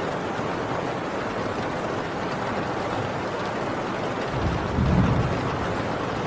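Heavy rain on a tin roof, a steady hiss. About four seconds in, a low rumble of distant thunder swells and then fades.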